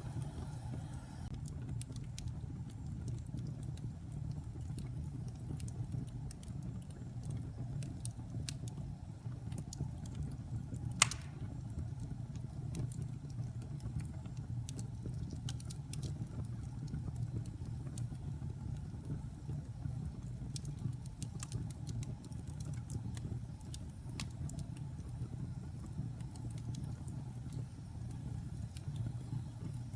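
Wood fire burning in a fireplace: a steady low rumble of flames with scattered small crackles, and one sharp loud pop about eleven seconds in.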